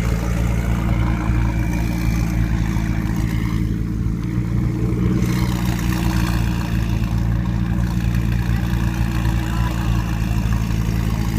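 Sports car engine running at a steady idle, close by and fairly loud, with no big revs.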